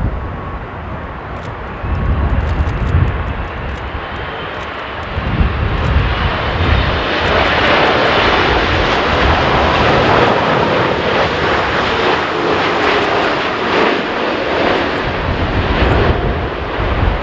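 Boeing 787 airliner's jet engines on final approach, growing from a faint whine to a loud, steady roar about six seconds in as it passes low overhead to land in a strong crosswind. Gusts of wind buffet the microphone underneath.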